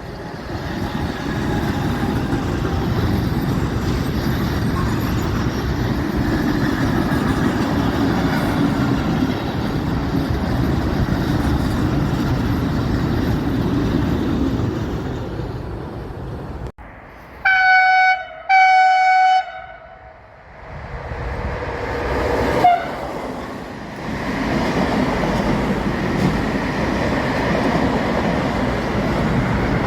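An electric-hauled freight train passes with a steady rumble of wheels and wagons. Then come two short locomotive horn blasts of the same pitch, and another train's rumble builds up as it approaches and passes.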